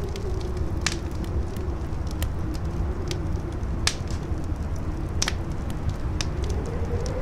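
Campfire crackling, with scattered sharp pops and a few louder ones, over strong wind. The wind gives a low steady rumble and a howl whose pitch wavers and rises near the end.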